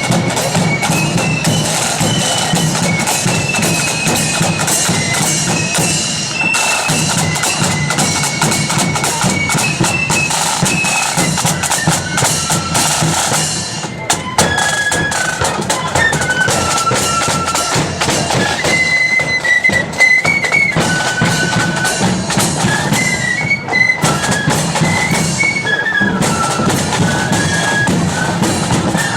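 Loyalist marching flute band playing a tune, high flutes carrying the melody over drums, with a brief break about halfway through.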